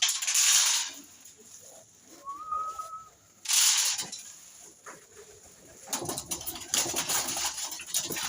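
Birds crowding in at feeding time: two short loud whooshing bursts like flapping wings, a short steady whistled note between them, then continuous rustling and scratching from about six seconds in.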